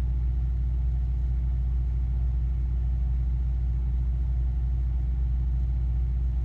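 2005 Acura RSX Type-S's 2.0-litre four-cylinder engine idling steadily with a low rumble, not long after a cold start, at an idle speed the owner finds not right.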